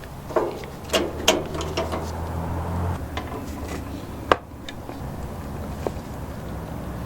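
Hand-tool clicks and clunks on a garden tractor: several sharp metallic clicks in the first two seconds and one loud knock a little past four seconds in, over a low steady hum.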